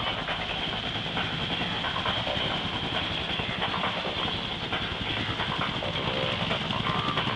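AH-1 Cobra attack helicopter running, its main rotor giving a rapid steady chop under a steady high whine.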